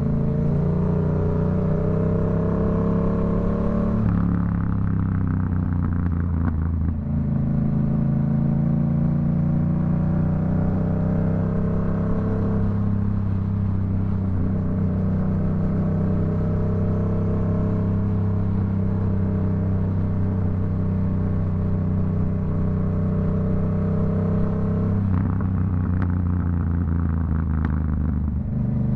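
Yamaha MT-07's CP2 parallel-twin engine through a Black Widow aftermarket exhaust, ridden on the road. It revs up for about four seconds, then the throttle closes and the exhaust crackles and pops for a few seconds. It then settles into a long, steady run with slowly rising revs, and another short burst of pops comes near the end.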